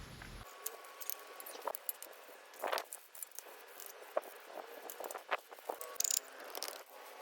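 Faint handling noises on a bicycle frame: scattered light clicks and rattles with a few short scrubbing swishes.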